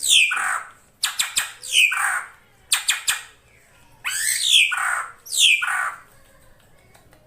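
Female drongo calling: a run of loud, harsh calls that sweep downward in pitch, about five in quick succession with a few sharp clicks between them, falling silent about a second before the end.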